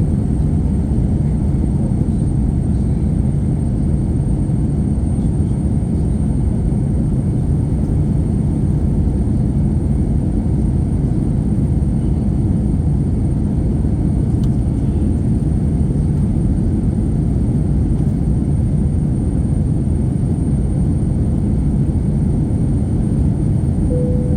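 Steady cabin noise inside an Airbus A321-231 airliner: the even roar of its IAE V2500 turbofans and rushing airflow, mostly low in pitch.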